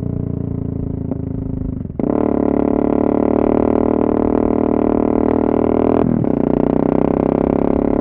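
Yamaha MT-03 660's single-cylinder engine running through an exhaust with the DB-killer baffles removed, at a steady note. About two seconds in it dips briefly, then comes back louder under throttle. Near six seconds the note falls away as the throttle closes.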